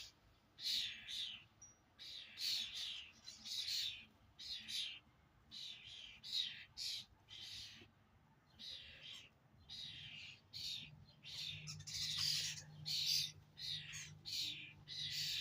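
Small birds chirping repeatedly, with short high calls coming in quick runs and brief gaps between them.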